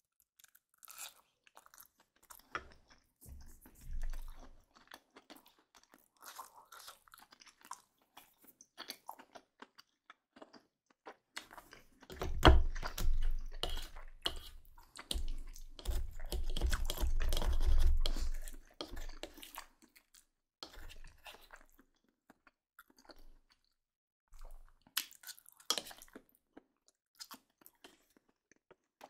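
Close-miked mouth sounds of chewing crisp baked garlic baguette: irregular crackles and crunches, loudest and densest for several seconds around the middle, then quieter wet chewing and a few later crunches.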